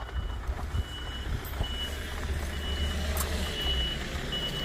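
A delivery truck's reversing alarm beeping steadily, about once a second, over the low, steady running of its engine as it tries to reverse while stuck in deep snow.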